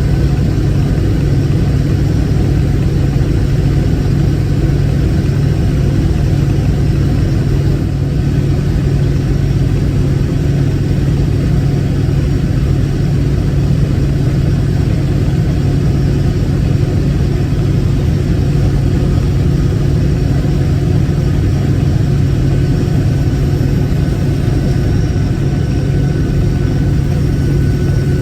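Case IH 1680 combine running steadily while straight-cutting barley: an even diesel-engine and threshing drone with a strong low hum and a faint high whine, no change in speed.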